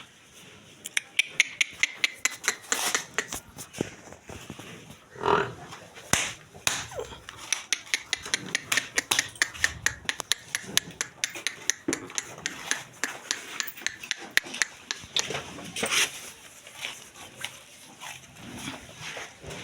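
Murrah buffalo giving one short low call about five seconds in, amid many sharp, irregular clicks and knocks.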